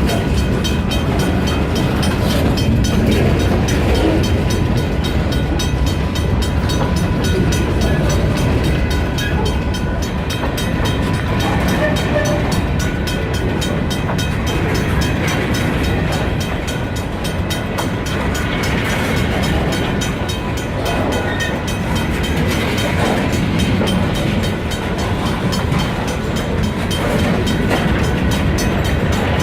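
Freight train rolling past, a steady loud rumble of wheels on the rails with no horn.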